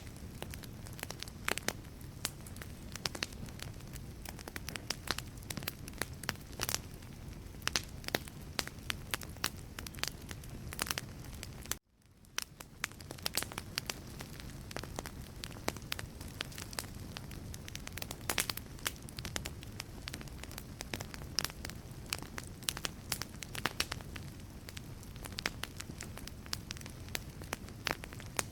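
Wood fire in a fireplace crackling, with frequent sharp pops from the burning logs over a steady low rumble. About twelve seconds in, the sound cuts out for a moment and fades back in.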